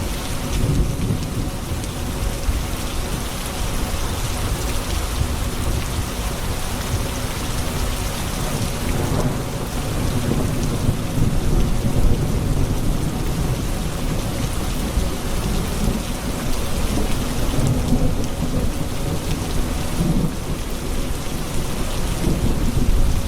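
Steady rain falling, with low rolling thunder that swells and fades.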